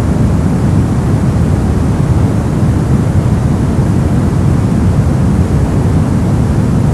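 Brown noise: a steady, loud, deep rumbling hiss with most of its energy in the low end and little in the highs, unchanging throughout.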